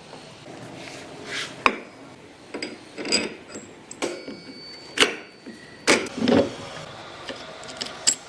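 Irregular hand-work knocks, clicks and scrapes of parts and tools being handled, about a dozen sharp taps spread unevenly, the loudest about two seconds in and around five to six seconds in.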